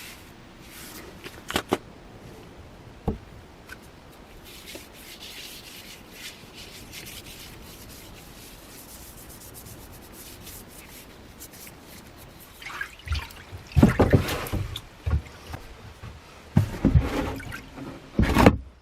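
Hand rubbing on a workpiece with a couple of sharp clicks early on, then a run of louder knocks and scrapes in the last few seconds.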